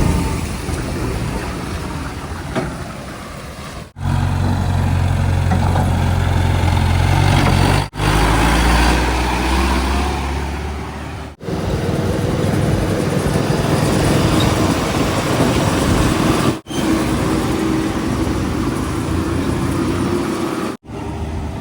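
Heavy diesel engines of earthmoving and haulage machinery running, heard in several short stretches that cut off abruptly every few seconds. From about four to eleven seconds in, a deep, steady engine drone is strongest.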